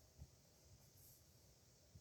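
Near silence, with only a faint scratch of a dip nib pen on paper about a second in and a soft low tap near the start.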